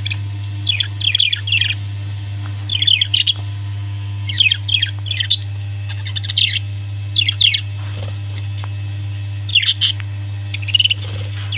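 Pet parrots chirping in clusters of quick falling chirps, a cluster every second or two, over a steady low hum.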